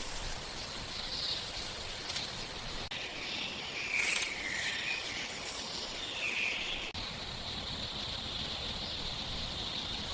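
Outdoor garden ambience: a steady hiss with a few short chirps about four and six seconds in, then a steady high insect-like drone in the last few seconds.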